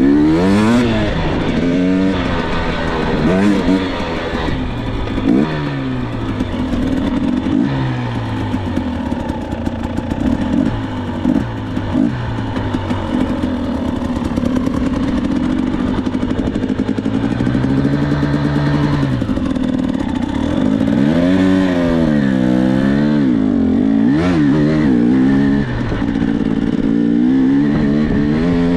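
Dirt bike engine being ridden, its pitch rising and falling over and over as the throttle is opened and shut, with steadier stretches in the middle and near the end.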